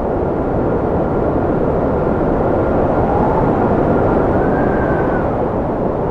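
Strong wind blowing steadily, a loud rushing with thin whistling tones that hold and then rise and fall.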